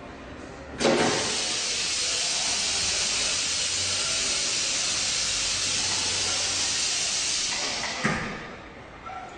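Compressed air hissing from a tyre changer's pneumatic system, starting abruptly with a knock about a second in, holding steady for about seven seconds, then dying away with another knock.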